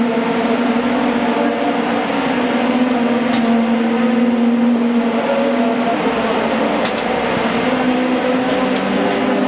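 Racing car engines running loud and steady at high revs, several engine notes sounding at once with only slow shifts in pitch.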